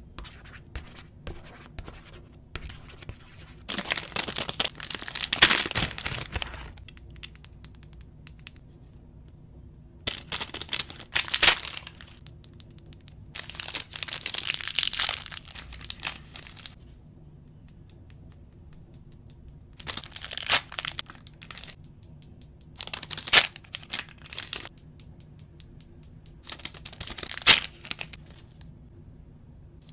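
Toy packaging being torn open and crinkled by hand, in about six bursts of one to three seconds with short pauses between.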